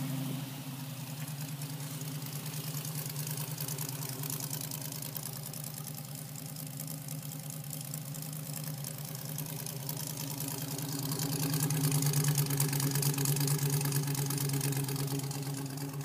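Jeep CJ engine idling steadily, just after being started.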